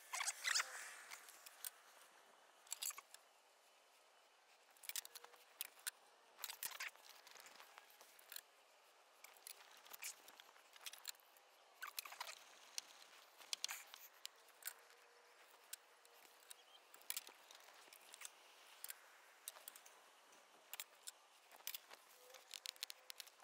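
Faint, irregular clicks and light scrapes of hand work, with a louder scrape right at the start.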